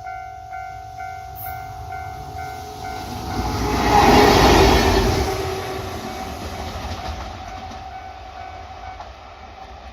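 A freight train passes close by, its rumble swelling to a peak about four seconds in and then fading away. Over the first few seconds a level-crossing warning bell dings about twice a second, then fades under the train.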